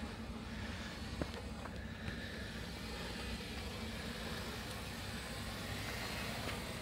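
Jeep engine running steadily with a low hum, with a few faint knocks over it.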